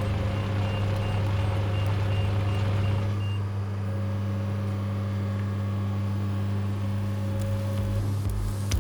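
Compact excavator's diesel engine running steadily, with a short run of evenly spaced high beeps for a couple of seconds near the start, like a travel alarm.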